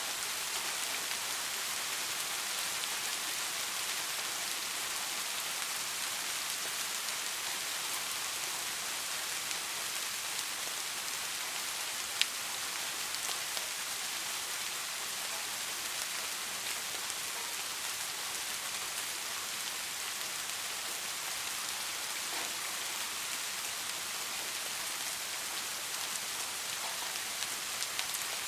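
Steady rain falling on a surface, an even hiss with scattered individual drop ticks, one sharper drop about halfway through.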